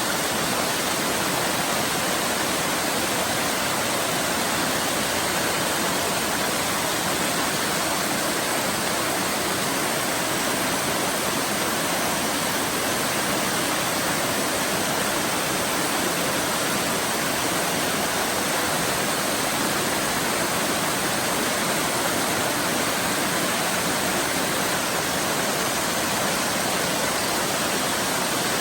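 Waterfall, a steady, even rush of falling water with no change.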